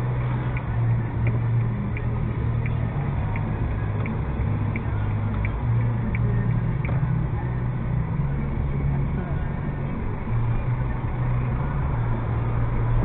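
Suzuki Jimny's 1.5-litre four-cylinder engine running steadily at low speed, heard from inside the cabin. A light regular tick, about one every 0.7 seconds, runs with it and stops about seven seconds in.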